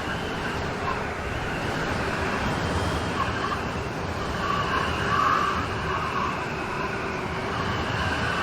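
Rainstorm: rain falling steadily as an even, continuous wash of noise.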